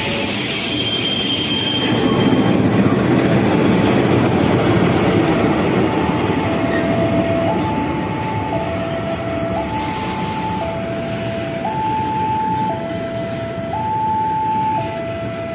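A passenger train hauled by a CC 206 diesel-electric locomotive rolls past slowly with a steady rumble of wheels and engine. From about six and a half seconds in, a level-crossing warning signal sounds, alternating between a lower and a higher tone, about a second each.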